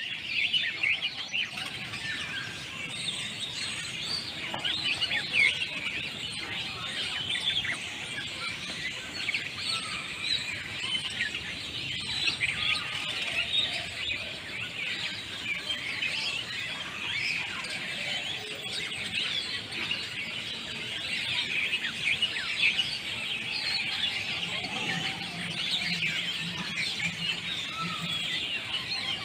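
Many birds chirping at once: a dense, continuous chorus of short, high calls.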